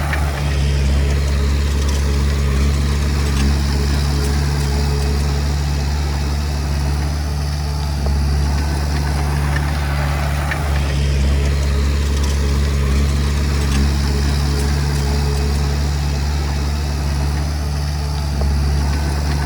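Komatsu D20P bulldozer's diesel engine running steadily, a constant low drone with a few faint clicks.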